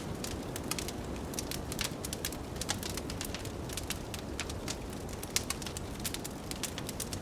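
Wood fire crackling, with frequent irregular sharp pops, over a steady low rumble of blizzard wind.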